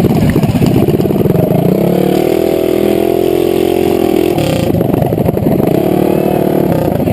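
Racing minibike engines under hard throttle. The pitch climbs and holds high about two seconds in, falls briefly as the throttle comes off around four and a half seconds, then climbs and holds again.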